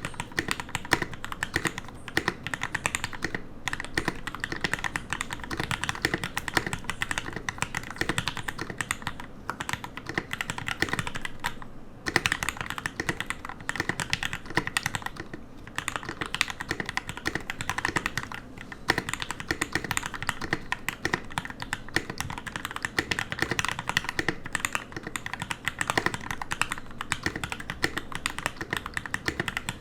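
Typing on a custom mechanical keyboard with Gateron Yellow linear switches, lubed with Krytox 205g0 and filmed, on an aluminium plate in a plastic case. A fast, steady run of key presses, with a few short pauses.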